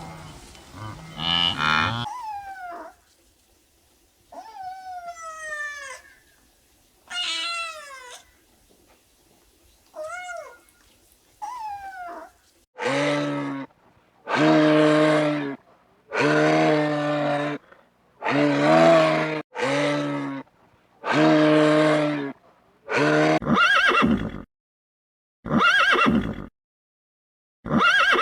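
A series of farm animal calls. First come several separate falling, wavering calls. Then, from a little under halfway, comes a run of loud, harsh calls repeated about every second and a half, and near the end some shorter calls.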